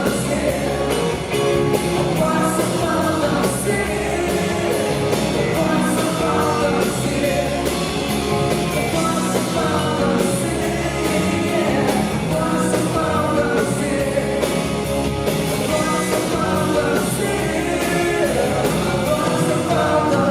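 Live rock band playing with a woman singing the lead over a steady drum beat.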